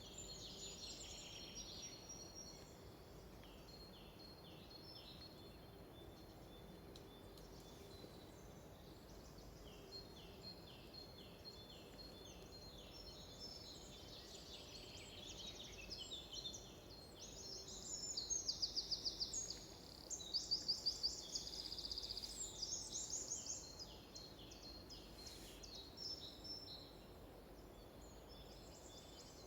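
Several songbirds singing in a forest: repeated short down-slurred notes, and from about seventeen seconds in a louder, rapid trilled song of many quick notes lasting several seconds. A faint steady background hiss lies underneath.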